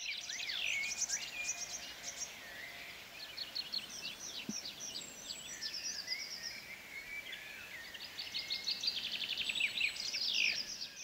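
Small birds singing together in the background: quick chirps, short whistles and rapid trills overlapping, with a fast trill building near the end.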